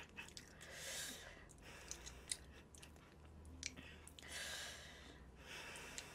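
Close-miked chewing of saucy chicken, coming in soft swells with a few small clicks.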